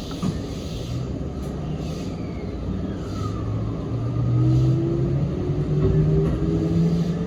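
Sanyo Electric Railway 3050 series electric train heard from inside the car while it accelerates. The traction motor hum rises in pitch in steps over the running rumble of the wheels on the rails, and it grows louder about four seconds in.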